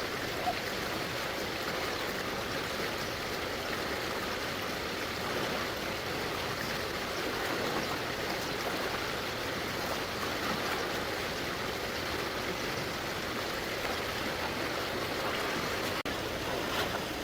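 Stream water flowing steadily, an even rushing noise with no distinct splashes.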